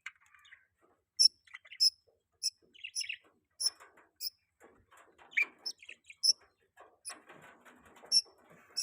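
Budgerigars chirping: sharp, high chirps repeat about every half second over softer warbling chatter.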